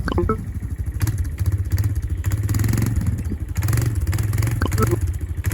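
Enduro dirt bike engine running under riding load, its note rising and falling, with frequent clattering knocks from the bike over rough ground.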